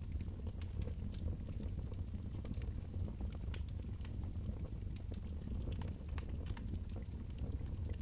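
Wood fire burning in a fireplace: scattered crackles and small pops over a steady low rumble.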